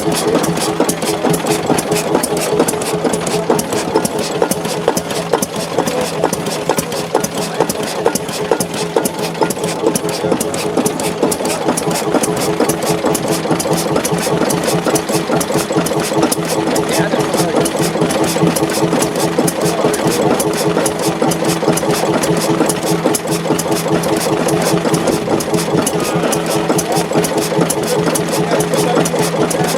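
Old Belgian stationary gasoline/kerosene engine running steadily at idle, with a quick, even beat of firing strokes.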